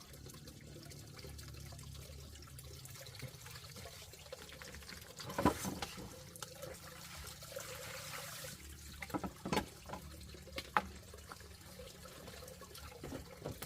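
Faint trickling water, with a few sharp knocks about five seconds in and again around nine to eleven seconds.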